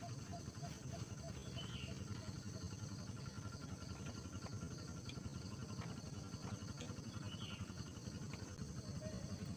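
Insects chirping in a steady, evenly pulsing high rhythm over a continuous low rumble, with a few faint short calls.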